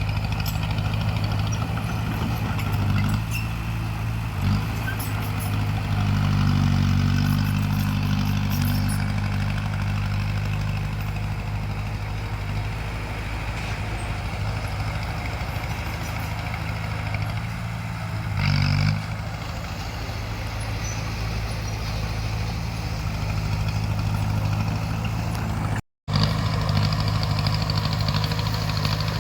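Bulldozer's heavy diesel engine running steadily under load, pulling harder for a few seconds early on, with a few short knocks and clanks.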